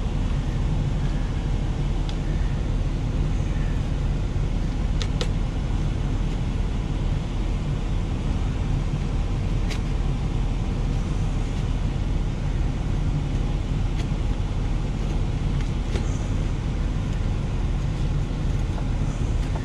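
Steady low diesel engine rumble of a semi truck idling, heard from inside the cab, with a few light clicks: a quick pair about five seconds in and one more near the middle.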